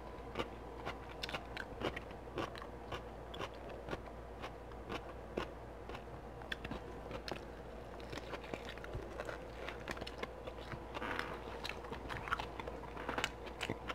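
Close-up eating sounds: a person chewing and biting barbecue beef ribs coated in a thick, sticky sauce glaze, with many small wet mouth clicks and smacks.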